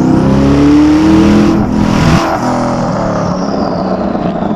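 Twin-turbocharged Ford GT's 5.4-litre V8 under hard acceleration, its note climbing steadily in pitch. About two seconds in the note drops abruptly and settles lower and steadier.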